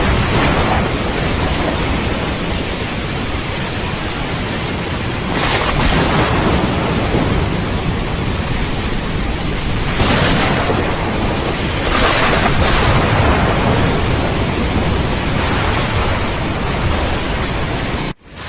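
Steady heavy rain with thunder rumbling, swelling louder several times. Near the end the sound cuts out for a split second and comes back.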